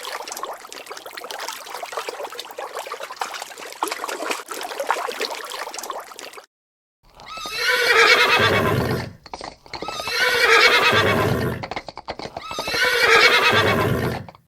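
Water splashing and churning from koi fish at the surface for about six seconds, then a horse neighing three times, each whinny lasting about two seconds.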